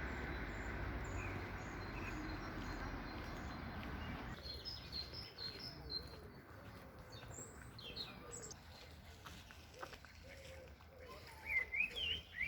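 Small birds chirping and singing in short high notes, louder near the end. A steady background hiss underlies the first four seconds and stops abruptly.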